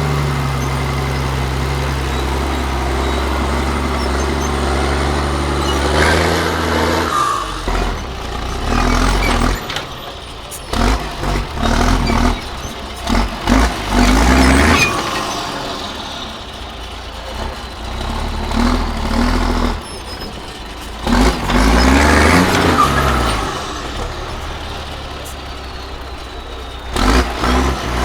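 Heavy off-road trial truck's diesel engine running steadily, then revving hard in repeated surges as it works. Short sharp noises break in between the surges.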